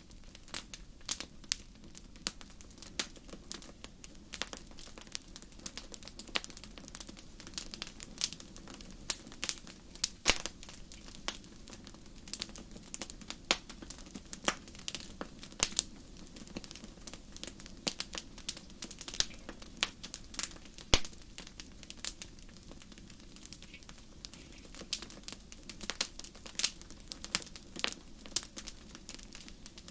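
Fireplace fire crackling: irregular sharp pops and snaps, several a second, over a steady low rush of flame.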